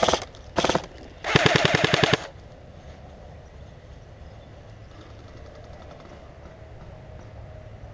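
Airsoft rifle firing on full auto: two short bursts, then a longer burst of about a second at a fast, even rate, after which the shooting stops.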